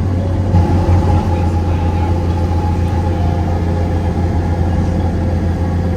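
Steady low engine drone, with a steady higher hum joining about half a second in.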